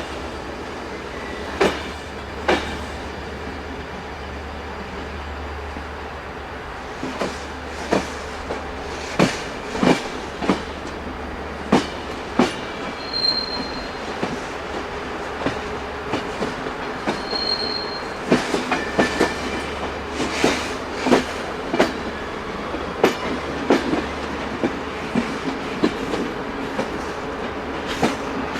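Train wheels rolling over rail joints: a steady rumble broken by sharp clicks, sparse at first and coming thicker from about seven seconds in. Twice a brief high squeal from the wheels.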